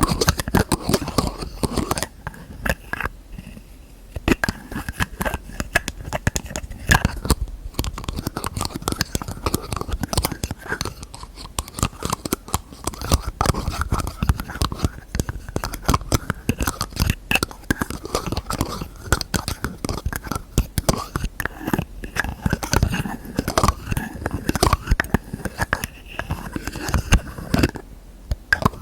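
ASMR tapping and lid sounds: fingernails tap quickly and irregularly on containers and their lids, a dense stream of clicks and knocks with a faint squeaky ring between them.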